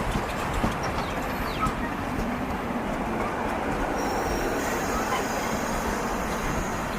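A train standing at a station platform, with a steady mechanical rumble from the idling train and people's voices mixed in.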